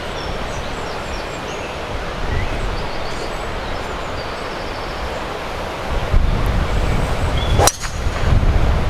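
Strong wind buffeting the microphone, a steady rushing with heavier low gusts late on. One sharp click cuts through near the end.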